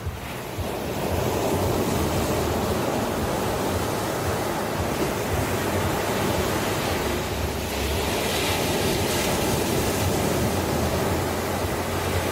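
Ocean surf: waves breaking and washing in a steady rush with a low rumble beneath, one wave swelling into a brighter hiss about eight seconds in.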